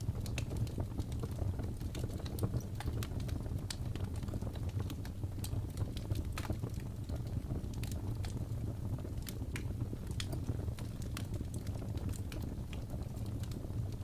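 Wood fire crackling in a fireplace: sharp, irregular pops and snaps over a steady low rumble of burning.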